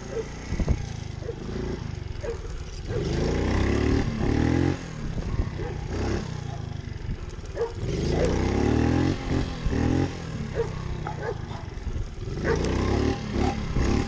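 Pit bike engine revved hard three times, each surge rising in pitch as the bike accelerates for a wheelie, with lower running between.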